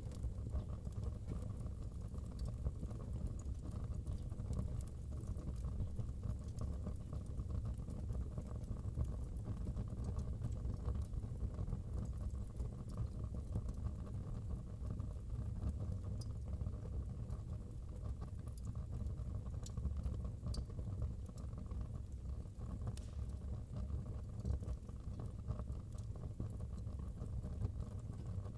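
Wood fire burning in a fireplace: a steady low rumble of flames with a dense run of small crackles and scattered sharper pops.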